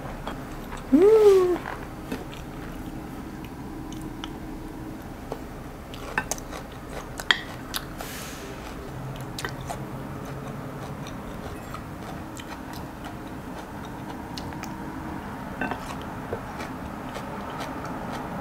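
Close-up chewing and mouth sounds of someone eating spaghetti and meatballs, with a few sharp clicks of wooden utensils against ceramic bowls. About a second in, a short hum rises and then falls in pitch.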